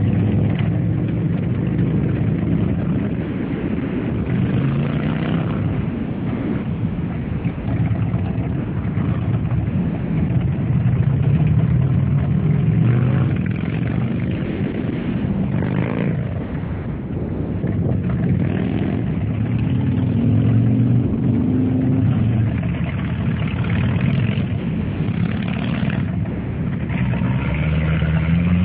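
Motorcycle engines running on a ride, their pitch rising and falling with the throttle, with one engine revving up near the end.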